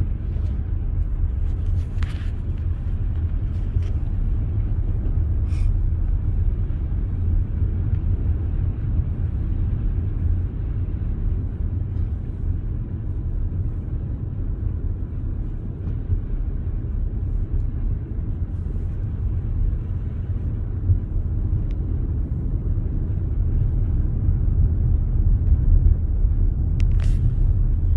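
Car driving along a road: a steady low rumble of engine and tyres, with a few faint clicks.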